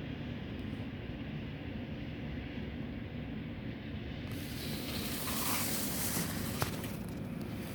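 Steady low rumble of storm wind buffeting the microphone in a snowstorm. About four seconds in, a sudden high hiss sets in and fades over about two seconds, and a sharp click comes near the end.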